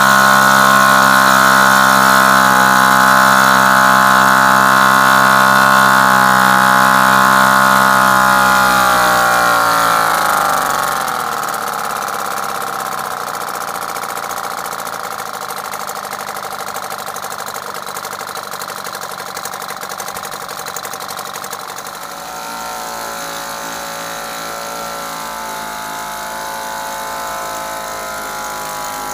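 A restored 1978 British Seagull Featherweight 1.5 hp single-cylinder two-stroke outboard motor running steadily. About ten seconds in it is throttled back and slows to a lower, quieter note. Near the 22-second mark it speeds up a little.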